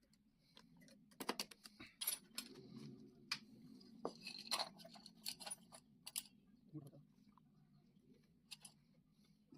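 Metal engine parts and hand tools clinking and tapping against each other during hand assembly of a Honda CD 100 engine: a busy run of sharp clicks and jingles for several seconds, thinning out near the end.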